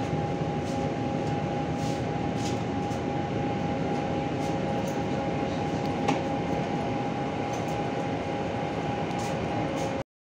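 Ride noise heard from inside a moving passenger train: a steady rumble of wheels on rails, with a steady two-note whine and faint clicks. There is one sharper knock about six seconds in, and the sound cuts off suddenly near the end.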